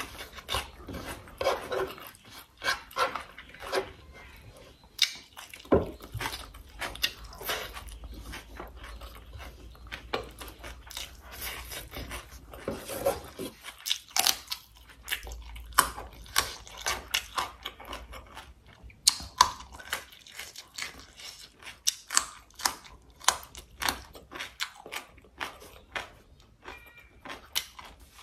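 Close-miked eating of sausage, rice and vegetables: irregular chewing and crunching, with many short sharp clicks and smacks.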